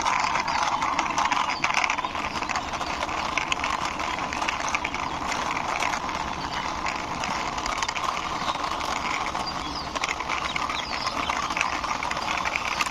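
Toy six-wheeler drum truck pushed along by hand, its plastic wheels rolling with a steady clicking rattle.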